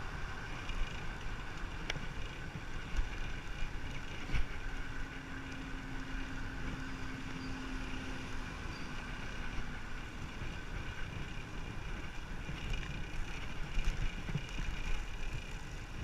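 Wind buffeting the microphone and road noise of a bicycle ride, a steady rushing rumble with a few small clicks. A faint steady hum rises out of it for several seconds in the middle.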